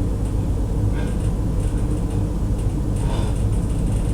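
Steady low rumbling background noise, with two faint brief scraping sounds, one about a second in and one about three seconds in.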